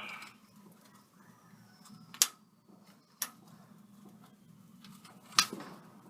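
Distant fireworks going off: three sharp bangs, about two, three and five seconds in, over a quiet background hum.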